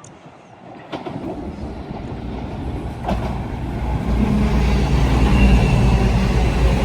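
A train approaching and growing steadily louder, with a low engine rumble and a couple of sharp knocks from the wheels about one and three seconds in.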